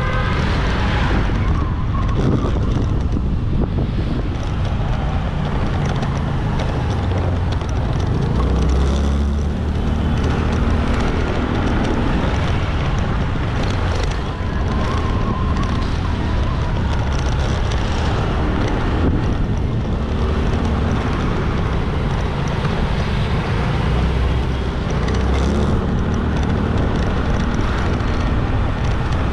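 Motorbike engine running on a ride through traffic, with wind buffeting the microphone and the hum of surrounding road traffic.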